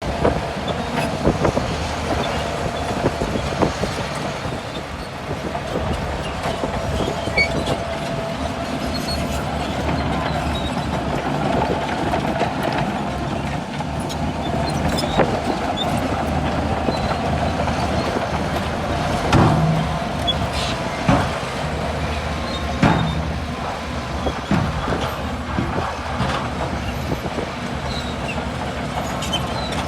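Heavy bulldozer's diesel engine running steadily under load, with frequent metallic clanks and knocks and a few louder thumps about two-thirds of the way through.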